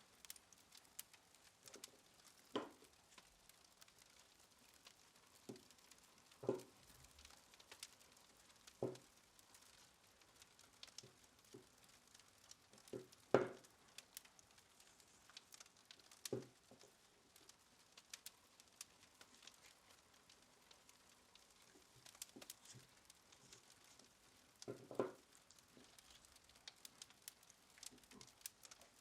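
Quiet handling sounds: about six soft knocks spread irregularly, with faint scattered clicks in between.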